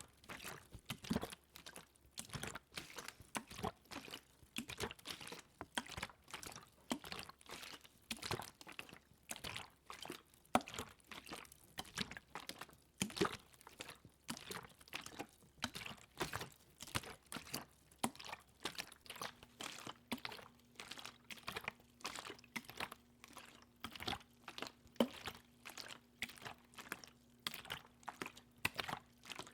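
ASMR water sounds close to the microphone: a continuous run of small wet clicks and splashes, several a second.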